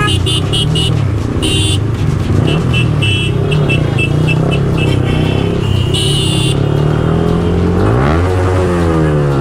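Yamaha R15M's single-cylinder engine running steadily while riding, revving up about eight seconds in and dropping back. Short bursts of high-pitched beeping sound over it several times.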